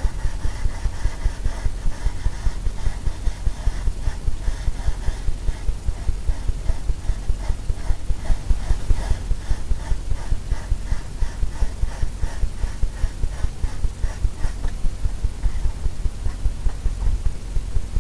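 Palette knife scraping oil paint onto a stretched canvas in quick, rhythmic strokes, about three or four a second.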